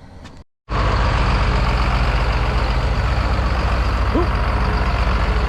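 A few faint clicks and knocks that cut off about half a second in, then a heavy vehicle's engine running loudly and steadily.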